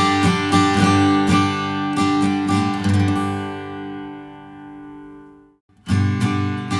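Taylor Builder's Edition 324ce steel-string acoustic guitar strummed in a steady rhythmic pattern, then a last chord left to ring and fade out. After a brief break of silence, strumming starts again near the end.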